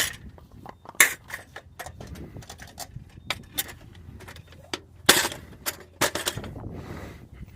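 Irregular sharp clicks and knocks with some rustling, the sound of objects being handled close by; the loudest knocks come about a second in and again around five and six seconds in, over a low rumble.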